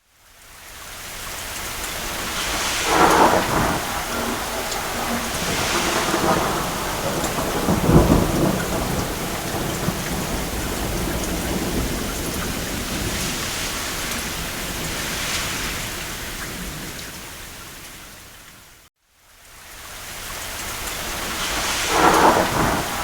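Steady rain on a roof with thunder rumbling several times, the strongest clap about eight seconds in. The sound swells up from silence at the start, drops out briefly about nineteen seconds in, then fades back up.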